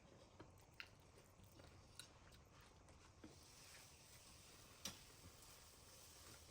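Faint chewing and mouth sounds of a person eating curry and rice, with a few soft clicks scattered through, the sharpest about five seconds in.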